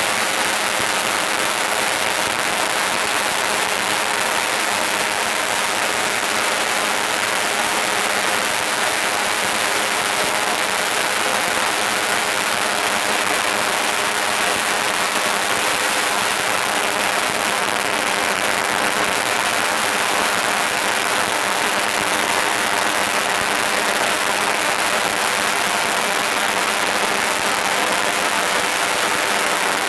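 Fireworks going off in a dense, unbroken crackle that holds steady throughout.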